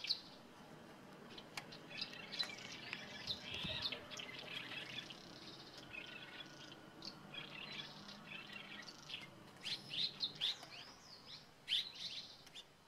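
Small birds chirping and twittering in short, high, quick calls that come thicker and louder near the end.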